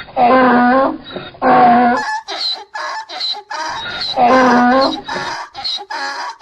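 Donkey braying: loud drawn-out calls twice in the first two seconds and again about four seconds in, with shorter, rapid, rhythmic calls in between.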